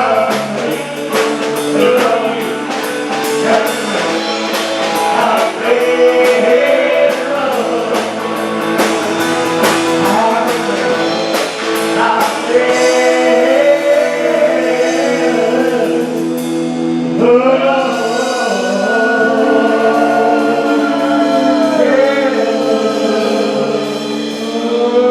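Live band playing a song with a lead singer, guitar and drum kit. The drums keep a steady beat until about two-thirds of the way through, then drop out, leaving long held sung notes over sustained chords.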